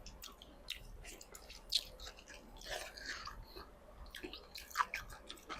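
Close-up mouth sounds of someone eating boiled frog: chewing with scattered wet clicks and smacks, and a sharper click about a second and a half in and another near the end.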